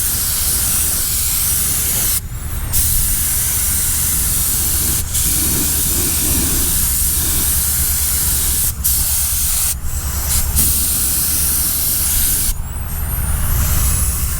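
Air spray gun spraying primer, hissing steadily in long passes with a few short breaks where the trigger is let off. A steady low hum runs underneath.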